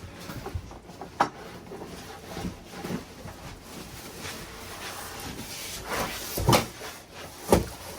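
Rustling and knocking of cardboard and foam packaging as a benchtop planer is handled and lifted out of its box: a sharp knock about a second in, then two heavier thumps near the end.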